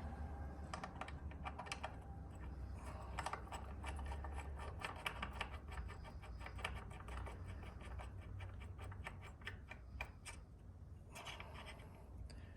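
Many quick, irregular light clicks and taps from hand tools and small fittings being worked on a motorcycle's rear-set assembly, over a faint low hum.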